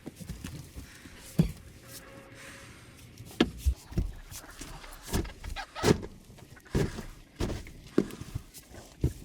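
A series of irregular knocks and thuds, about a dozen spread over several seconds.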